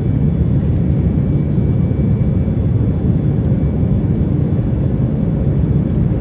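Steady, loud rumble of a Boeing 737 MAX 8's CFM LEAP-1B engines and rushing air, heard inside the cabin during takeoff, with a faint high whine that fades out about halfway.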